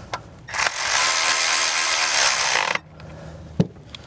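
A ratchet with a 10 mm socket running an ignition coil bolt down for about two seconds, then a single sharp click near the end.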